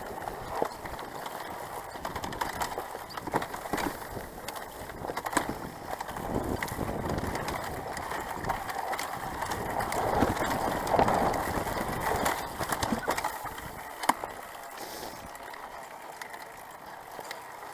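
Bicycle ridden over a rough dirt trail: tyres crunching on loose ground, with scattered clicks and rattles from the bike.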